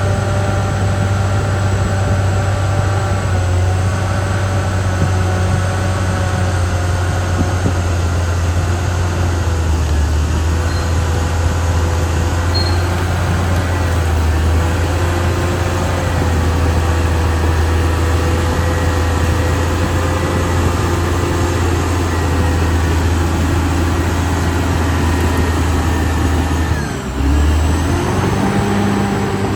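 Caterpillar D6R XL bulldozer's diesel engine running steadily at working revs. It dips briefly near the end, then picks up again.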